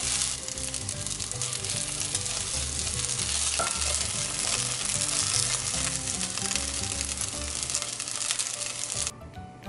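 Bacon fried rice with onion sizzling in a hot frying pan while it is stirred and turned with a wooden spoon; the sizzling stops suddenly near the end.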